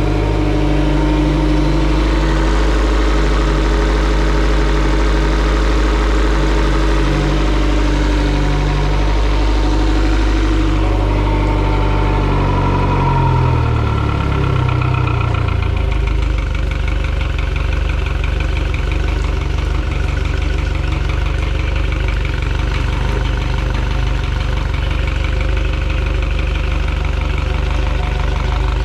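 Mercury 115 hp EFI four-stroke outboard engine running at a raised speed, then slowing to a lower, steady idle about halfway through.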